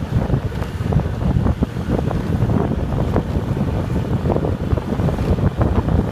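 Wind buffeting the microphone, a heavy, unsteady low rumble, as when riding on a moving motorbike.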